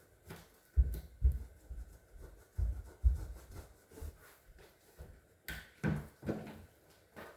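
A string of dull thumps and rubbing from handling, the heaviest in the first three seconds, with a few sharper knocks after about five and a half seconds.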